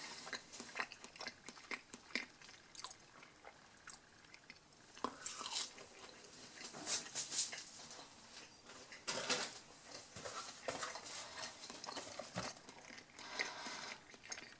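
A person chewing a bite of breaded mozzarella stick, with soft crunches and mouth noises coming in irregular bursts.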